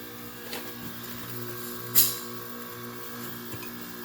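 Hampton Bay 5000 BTU window air conditioner running with its compressor on and cooling, a steady hum. There is a brief sharp sound about two seconds in.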